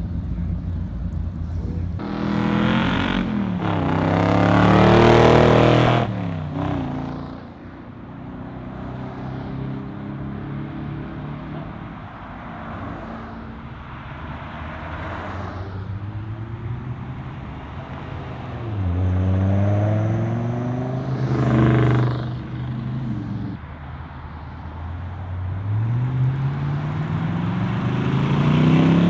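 Muscle car engines revving as cars pull away and accelerate past. One loud rising rev starts about two seconds in and peaks around six seconds, another climbs around twenty seconds, and a third builds near the end, with engines running at low revs in between.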